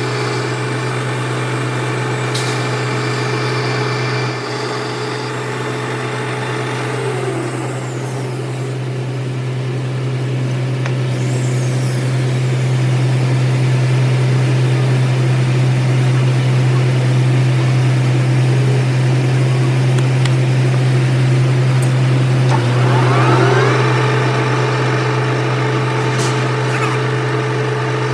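Workshop machine motor running steadily with a loud low hum. Its pitch slides down about seven seconds in and back up near the twenty-third second, as when the machine changes speed.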